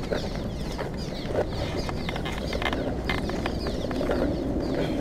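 A colony of birds nesting under an overpass, chirping constantly: many short, quick, high chirps overlapping, over a steady low rumble.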